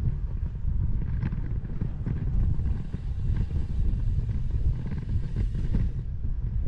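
Wind buffeting the microphone of a bike-mounted 360° camera while cycling: a steady, gusting low rumble.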